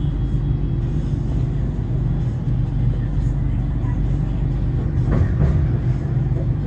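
Inside a BTS Skytrain EMU-B1 car: a steady low rumble of the train running, with a faint constant hum.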